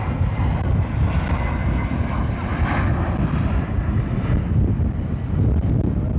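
Jet airliner's engines rumbling as it passes, the higher hiss dying away about four and a half seconds in while the low rumble carries on.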